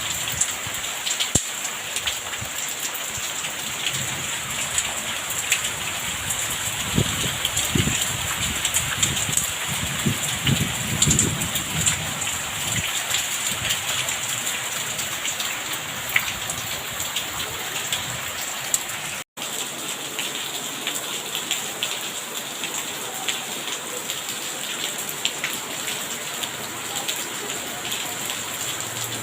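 Steady rain with dense pattering of drops on surfaces. A low rumble swells and fades about a third of the way in, and the sound drops out for an instant about two-thirds in.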